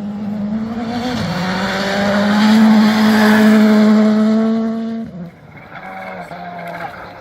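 Rally car running flat out at steady high revs, growing louder as it passes close by. About five seconds in the engine note drops abruptly as the driver lifts off, leaving a fainter engine sound.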